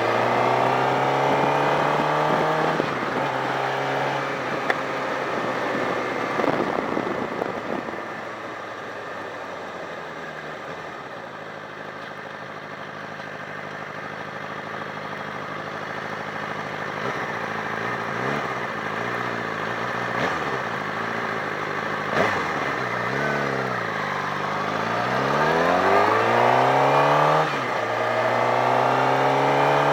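Sportbike engine accelerating through the gears, its pitch climbing and dropping back at each upshift. In the middle it eases off to a lower, quieter drone. Later it revs, dips and pulls up through the gears again.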